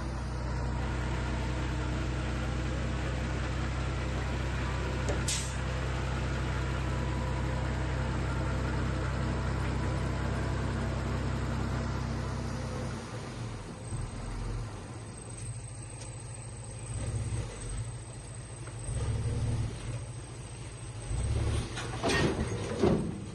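Heavy diesel machinery engine running steadily, then dropping off about halfway through into uneven low rumbles. A sharp click comes about five seconds in, and there are a few louder knocks near the end.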